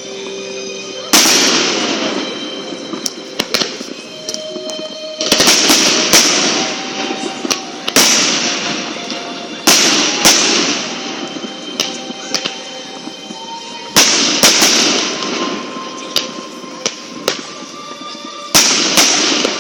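Fireworks shells bursting in the air: about eight loud bangs, each trailing off in a fading crackle, with many smaller sharp pops between them. Music plays faintly underneath.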